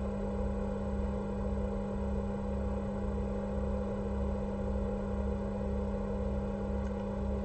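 Steady electrical hum, with a soft low throb pulsing about twice a second underneath.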